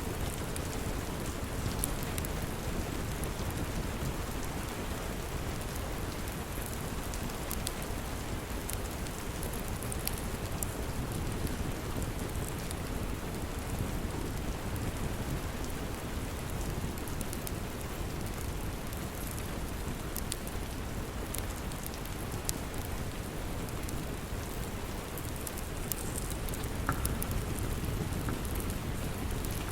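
Steady rain falling, with scattered faint crackles of a log fire.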